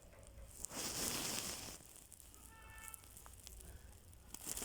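Pet budgerigars with a rustling, crinkling burst lasting about a second, about a second in, then a short pitched chirp near the middle.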